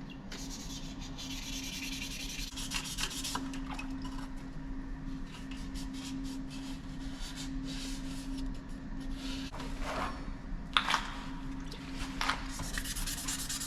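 Hand sanding a Damascus steel knife blade with 600-grit sandpaper in uneven back-and-forth rubbing strokes, between ferric chloride etch cycles.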